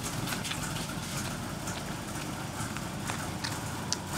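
Jaguar XJS 5.3-litre V12 engine idling steadily with Seafoam freshly drawn through its intake, with a few scattered light ticks over the low rumble.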